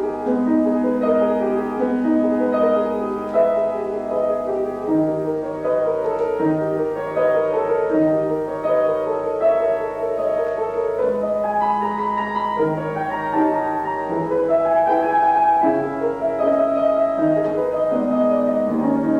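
A keyboard instrument, heard as piano, plays a short piece: a melody over sustained chords and a moving bass line, with no singing.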